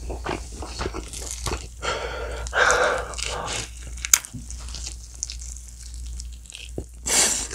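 Close-up eating sounds of spicy sauce-coated fried chicken: wet, sticky chewing, then biting into a drumstick, with a sharp click about four seconds in.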